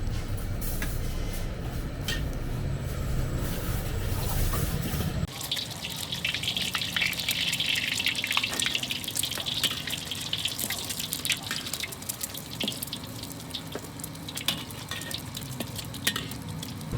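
Stall-kitchen work sounds. A low rumble with a few clicks stops abruptly about five seconds in. It gives way to a steady hiss, loudest in the middle stretch, with many light clinks and clatters of utensils or dishes.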